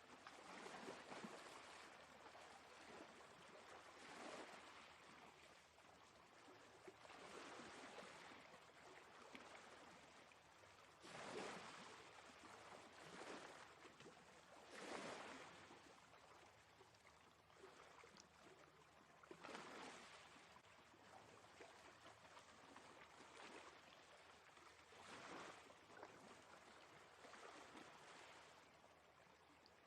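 Faint sea waves washing onto a shore, each surge swelling and fading every few seconds.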